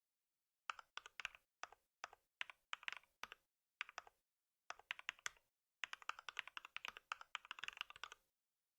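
Computer keyboard typing in short bursts of quick keystrokes with brief pauses between them, ending in a longer fast run of keystrokes.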